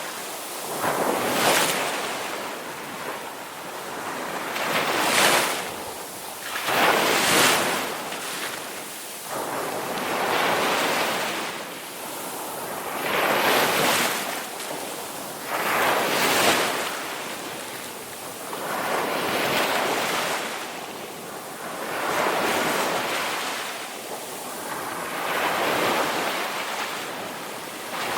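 Ocean waves breaking and washing on a shore, one surge after another every two to three seconds, each swelling and falling away.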